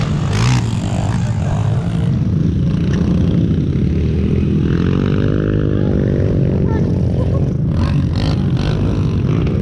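Pit bike's small engine running, its pitch rising and falling once in the middle as it revs up and back down. A few short clattering clicks come near the end.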